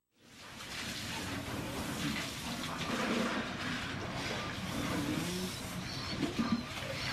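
Steady rush of running water, with a few low pitched sounds over it.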